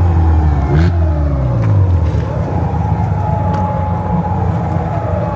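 Car engines running, with an engine note that falls in pitch over the first second or two.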